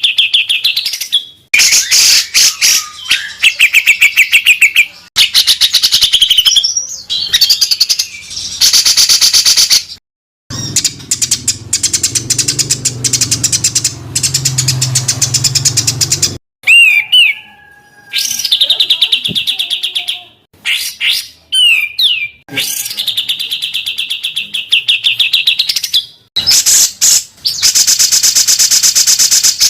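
Songbirds giving fast trains of sharp, harsh repeated notes and high trills, the 'rapid and rough' phrases used as a bird-song tutor recording for murai batu, cucak ijo and kacer. The segments are spliced together with abrupt cuts and short silent gaps. Under one segment in the middle there is a low hum.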